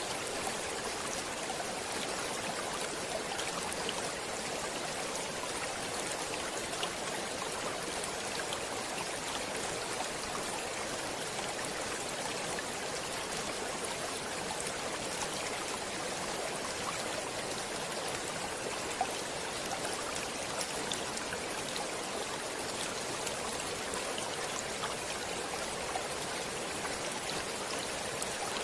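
Stream water flowing and splashing over rocks in a steady rush, with many small droplet splashes.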